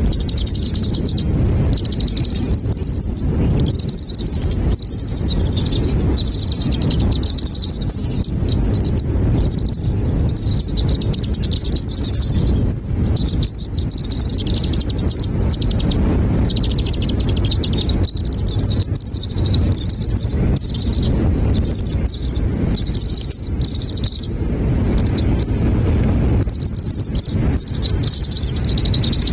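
Birds chirping in quick, high-pitched runs, almost without pause, over a steady low rumble.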